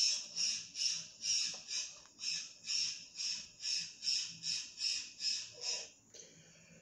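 A bird's harsh, raspy call, repeated about fourteen times at a little over two a second and stopping about six seconds in.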